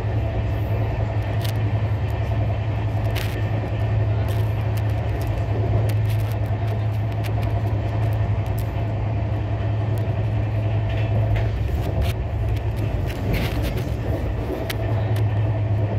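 Passenger coach of the Gorakhpur Ahmedabad Express running along the track, heard from inside the coach: a steady low rumble and hum with scattered sharp clicks.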